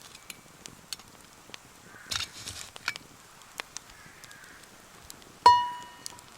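Small clicks and knocks of camp gear being handled, then about five and a half seconds in a sharp metallic clank that rings out and dies away over about a second: a piece of metal cookware struck.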